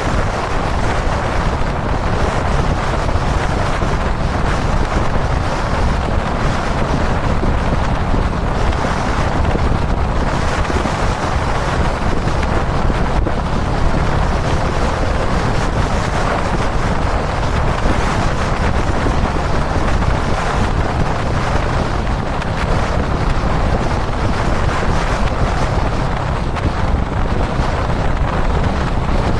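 Steady wind rushing over the camera microphone at expressway speed, with the motorcycle's engine running at a constant cruise beneath it. The bike is a Kawasaki Dominar 400 UG2, a single-cylinder motorcycle.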